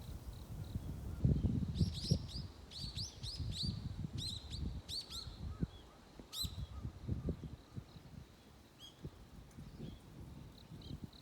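Small songbird chirping at dawn: a quick series of short, high, falling chirps for about five seconds, then a few faint scattered notes. A low uneven rumble runs underneath.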